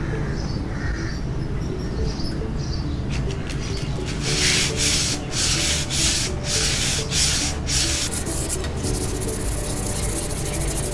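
Abrasive rubbing on the rusted steel blade of a curved sword. It starts about three seconds in as long back-and-forth strokes, each about a second long, and turns to quicker, steadier rubbing near the end.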